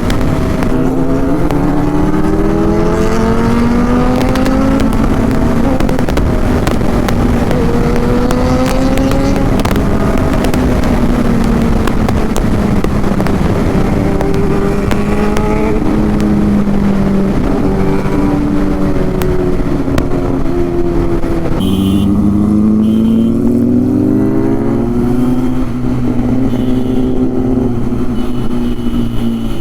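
Inline-four Kawasaki sport motorcycle engine under way, its pitch climbing and dropping back again and again as it revs through the gears. About 22 seconds in the sound changes: the engine note settles lower and the hiss above it thins out.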